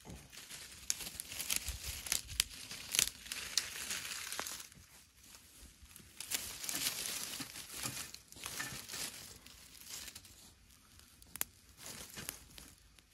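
Plastic packaging crinkling and rustling as it is handled and pulled open, in irregular bouts with a few sharp clicks.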